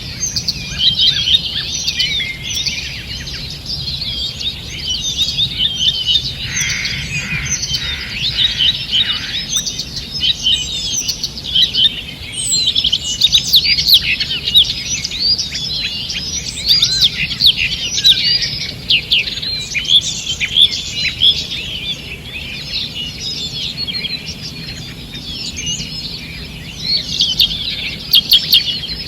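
Morning chorus of several songbirds singing at once: dense, overlapping chirps and quick trills, with a run of lower repeated notes for a few seconds about a quarter of the way in.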